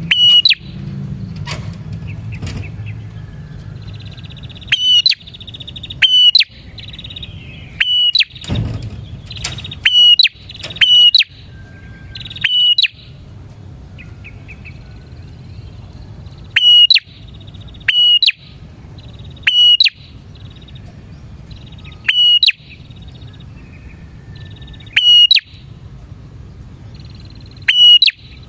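Prenjak (prinia) calling repeatedly: loud, sharp chirps about every one to two seconds, with stretches of rapid trilling between them.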